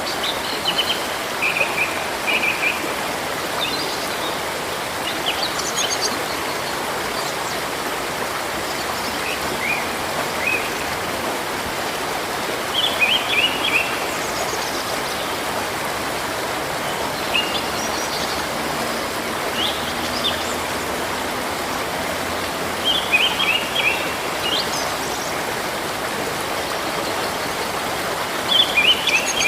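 A river stream flowing steadily, with small birds chirping in short clusters of quick notes every few seconds.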